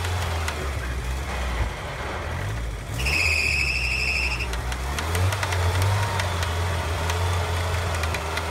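Off-road 4x4's engine running steadily, a little stronger from about five seconds in. About three seconds in, a high, slightly wavering whine sounds for a second and a half.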